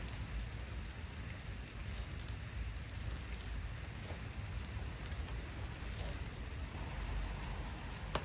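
Steady patter and hiss of rain falling, with scattered sharp crackles from a campfire and a low rumble underneath.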